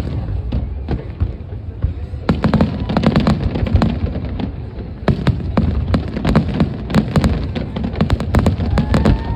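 Fireworks exploding in quick succession: many sharp bangs and crackles over a continuous low rumble, thickening from about two seconds in.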